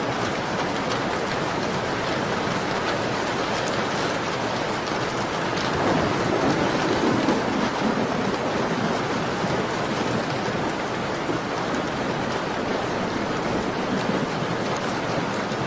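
Steady rain pattering on a window pane, with faint crackling from a fireplace. The rain swells briefly about six seconds in.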